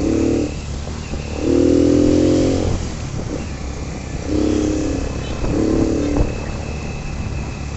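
Motorcycle engine running under way over a steady low rumble, with four louder pitched surges of half a second to a second as the throttle is opened.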